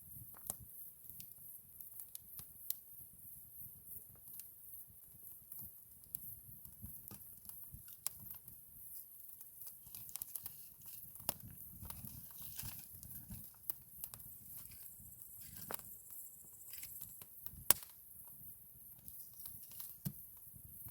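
Wood campfire crackling, with irregular sharp snaps throughout and one loud pop a few seconds before the end.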